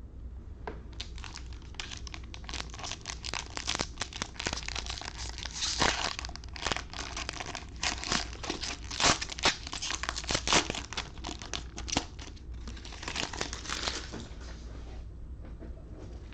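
Trading card pack wrapper being torn open and crumpled: a dense run of crackling crinkles that starts about a second in and dies away near the end.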